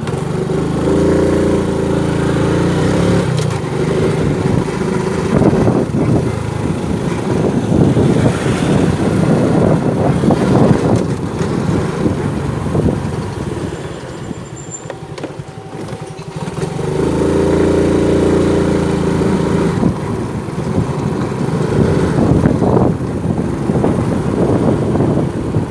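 Motorcycle engine running as the bike rides along, with wind noise on the microphone. A steady engine hum stands out twice, about a second in and again about seventeen seconds in.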